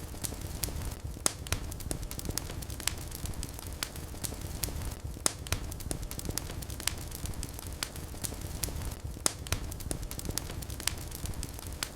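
Wood fire burning in a fireplace: a steady low rush of flames with frequent sharp crackles and pops, several a second, a few of them louder than the rest.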